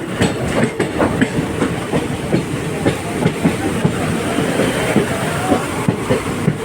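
Indian Railways ICF passenger coach running at speed: a steady rumble of wheels on track with a rapid, irregular clatter of clicks and rattles.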